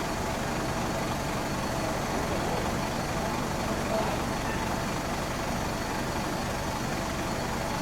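A motor vehicle's engine idling steadily, with indistinct voices in the background.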